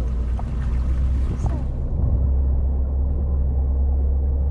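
Small boat's outboard motor running steadily under way, heard from on board as a loud low drone.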